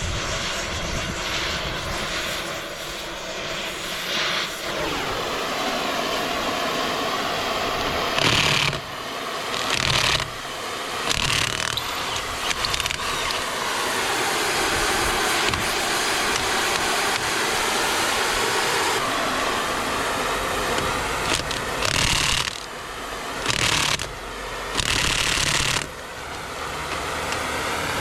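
A motor running steadily, with several short, louder hissing bursts about a third of the way in and again near the end.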